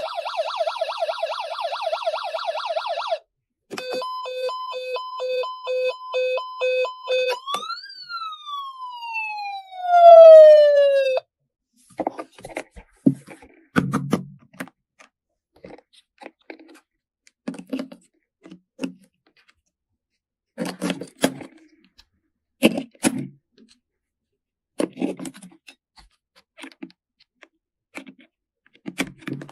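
Electronic sound effects from a toy train: a rapidly warbling siren for about three seconds, a run of evenly pulsed beeps, then a long falling whistle tone, the loudest part. After that come scattered short clicks and knocks.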